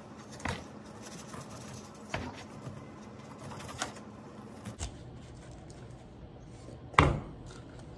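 Knife cutting through the tough rind of a whole pineapple around its crown: a few separate crunches, with a louder one near the end.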